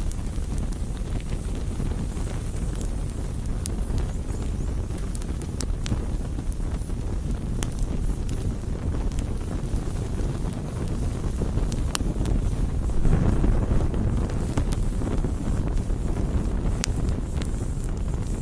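Wood campfire burning: a steady low rush of flame with scattered sharp crackles and pops. The rushing swells louder for a moment about thirteen seconds in.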